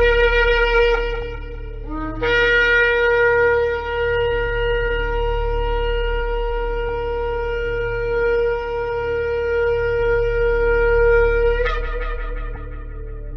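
Shofar (ram's horn) being blown: a short blast ends about two seconds in, then one long steady note holds for about nine seconds, breaking briefly near the end before it fades. A steady low hum lies underneath.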